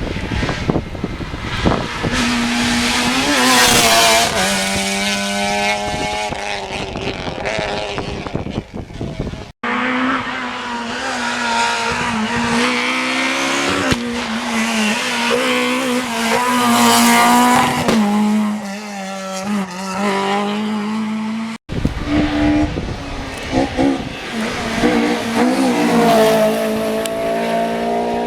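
Rally cars driving hard on a closed special stage, engines revving up and dropping through gear changes, with some tyre squeal. Abrupt cuts about ten seconds in and about twenty-two seconds in split it into three separate passes.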